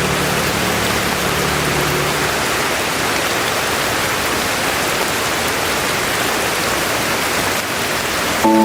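Steady rain, an even hiss. The last held notes of a soft melody fade out about two seconds in, and a new melody begins just before the end.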